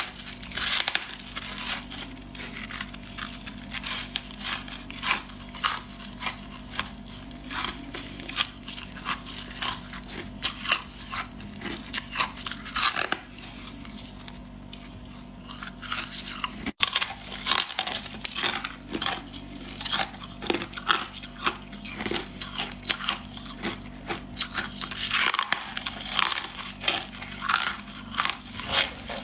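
Freezer frost being bitten and chewed close to the microphone: a rapid, uneven run of crisp crunches with a sudden break about two-thirds of the way through.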